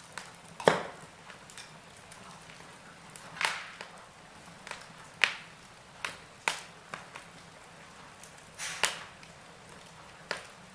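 Wood fire in a fireplace crackling: irregular sharp pops and snaps, the loudest about a second in, over a faint steady hiss.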